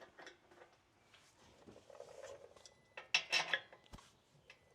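Metal parts clinking and clattering as they are handled, with light clicks at first and a quick cluster of sharper metallic clinks about three seconds in.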